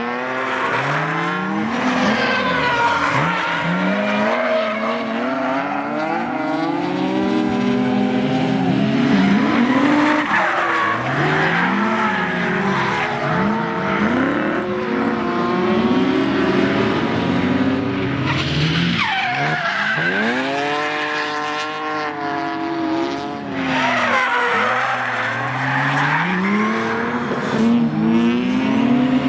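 Nissan 240SX with a VR38DETT twin-turbo V6 drifting: the engine revs climb and drop again and again as the rear tyres squeal and skid.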